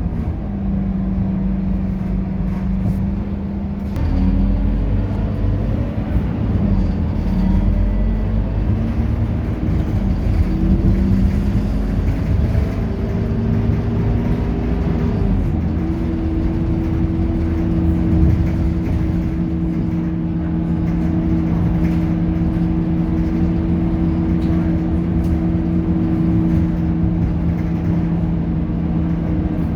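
Scania K230UB bus's five-cylinder diesel engine running under way. Its pitch holds level, climbs steadily for about ten seconds, then drops a step and holds steady.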